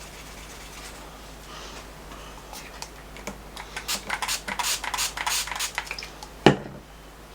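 Paintbrush scrubbing and clicking in a pan of gold watercolour paint as it is loaded: a quick, irregular run of light clicks and taps lasting a few seconds, ending in one louder knock.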